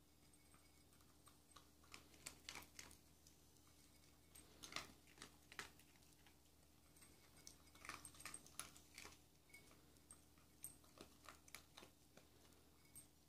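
Faint, irregular clicks and crunches in short clusters: a dog eating dry kibble from small cups.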